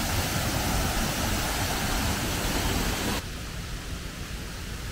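Steady rushing noise of a tall waterfall, the Sendang Gile falls. It drops abruptly to a lower level about three seconds in.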